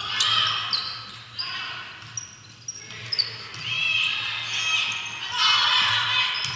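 Sneakers squeaking in short, repeated chirps on a gym floor during play in a large echoing hall, over crowd murmur that swells near the end.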